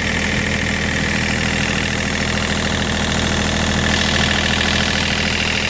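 Hitachi ZX35U mini excavator's diesel engine running steadily.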